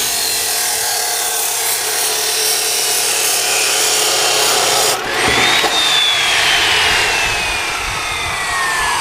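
Chop saw cutting through a stainless steel exhaust pipe with a harsh, steady grinding. About five seconds in the sound breaks, then the saw's whine climbs and falls slowly in pitch as the cut goes on.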